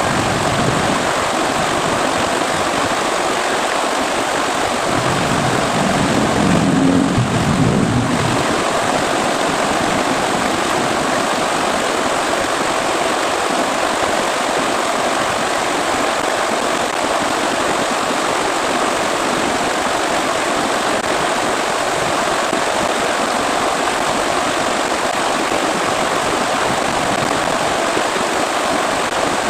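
Heavy rain falling in a steady downpour, with a brief low rumble about seven seconds in.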